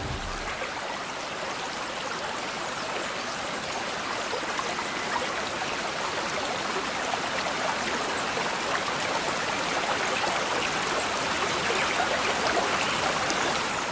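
Small stream babbling: a steady rush and trickle of flowing water, growing slightly louder toward the end.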